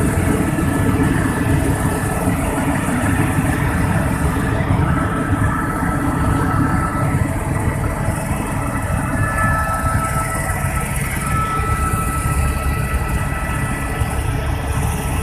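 Helicopter engine and rotor noise, a loud, steady drone with faint steady whining tones above it.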